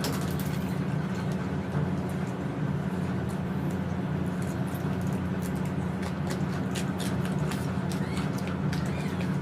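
Eating sounds of someone chewing a meal of rice and curry: many small irregular wet clicks and smacks over a steady low hum.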